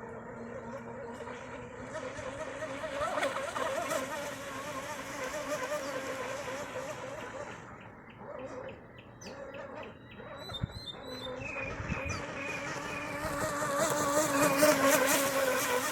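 Motor of a U99 shovel-nose RC boat running on the water, a buzzing whine whose pitch wavers up and down with the throttle. It grows louder about three seconds in, fades near the middle, and is loudest near the end as the boat comes close.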